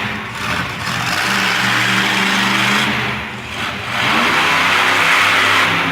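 Monster truck engine revving hard in surges, easing off twice and coming back up.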